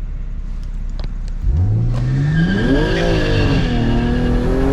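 BMW M340i's B58 turbocharged inline-six, fitted with an MST cold-air intake, at full throttle off a launch-control start. It sits at a low steady rumble, then about a second and a half in the revs climb steeply, drop at an upshift, and climb again.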